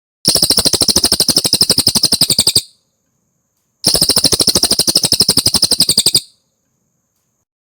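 Cililin bird singing: two fast, even trills of a bit over two seconds each, separated by a pause of about a second.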